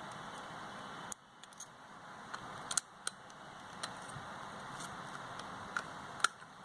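Light, scattered clicks and taps from a mobile phone being handled while its touch screen is tested, over a steady hiss that drops out about a second in and slowly comes back.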